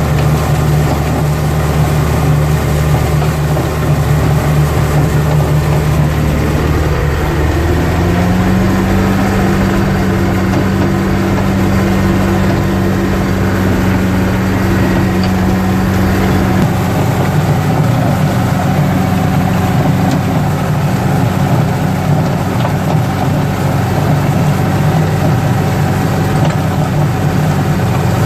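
Yanmar US545 tractor's three-cylinder diesel engine running steadily at a fixed throttle while driving a rotary tiller through the soil. About a quarter of the way in the engine note steps up in pitch and then holds steady.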